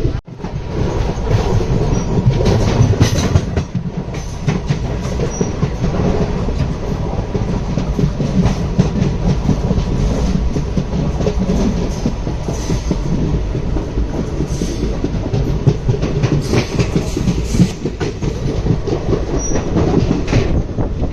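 Express passenger train running at speed, heard from aboard an ICF coach: a steady rumble with rapid clickety-clack of the wheels over rail joints, with louder bouts of clatter about 2 to 3 seconds in and again near 17 seconds.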